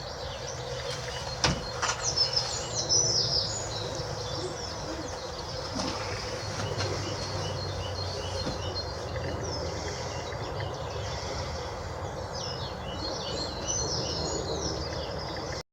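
Several small birds chirping over steady outdoor background noise, with a few sharp clicks about one and a half to three seconds in.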